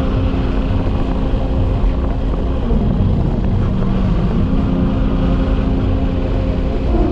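Motorcycle engine running while riding, over a heavy rumble of wind and road noise. The engine note drops about three seconds in and rises again about a second and a half later, as the rider eases off and speeds up.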